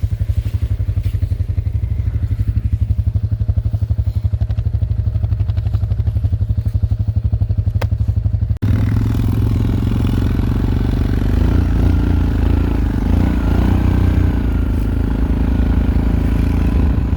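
Suzuki ATV engine running at a steady, evenly pulsing idle; about halfway through it cuts to the engine running louder and harder, under load.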